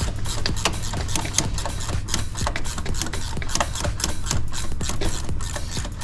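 Rapid, irregular metallic clicks and taps of hand tools working on a car engine, over a steady low hum.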